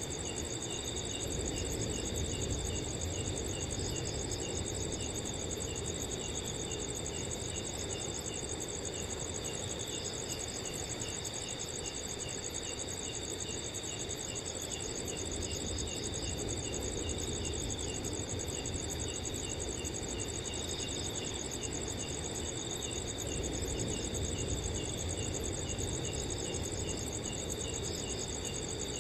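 Crickets chirping in a dense, steady chorus of several overlapping high trills, one of them a regular pulse of about three chirps a second. A soft, low rush of wind runs underneath.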